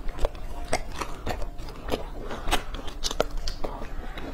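Close-miked chewing of a crisp fried pastry: irregular crunchy crackles, several a second, as the bite is worked over.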